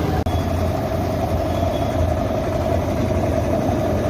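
Bitumen tanker truck's machinery running steadily with a low, even hum, cutting out for an instant about a quarter second in.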